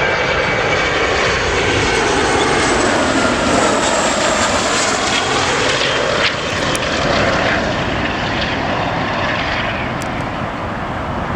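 Boeing 737 jet engines passing low overhead on landing, loud, with tones that fall in pitch as it goes by. Its engine sound has an odd rattle, likened to a lead weight in a washing machine or something in a tumble dryer, which the onlookers take for something rattling in an engine.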